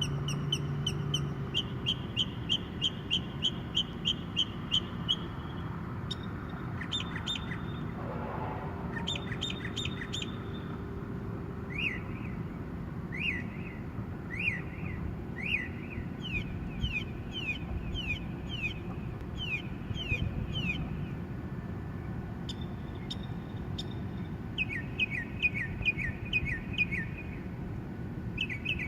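A songbird singing at night: a long run of varied phrases, each a quick series of repeated notes, switching to a new kind of phrase every few seconds. A faint steady low hum lies underneath.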